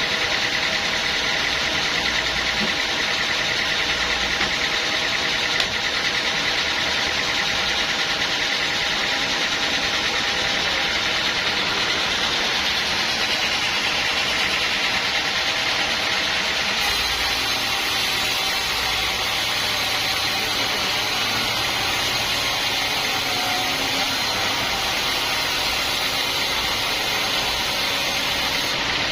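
A machine's engine running steadily at a constant speed, with a continuous hum and no pauses; most likely the sawmill's engine-driven saw running.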